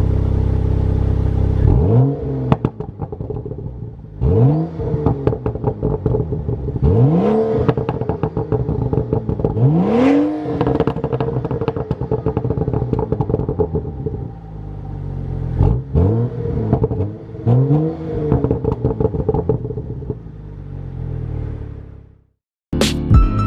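Tuned BMW 335i's turbocharged inline-six, with muffler delete, idling and then revved about six times; each blip falls away into a burst of crackling burbles from the tune's burble map. Music starts just before the end.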